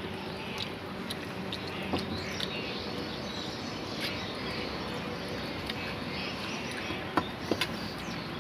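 Steady background noise with a few small, faint clicks and taps, the sounds of a meal of rice and mutton curry being eaten off plates.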